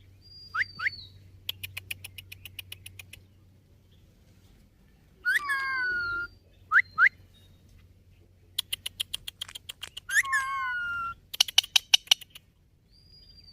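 Indian ringneck parakeet calling: short high whistles and sharp upward calls, two drawn-out harsh squawks of about a second each, and three runs of rapid clicking at roughly ten clicks a second.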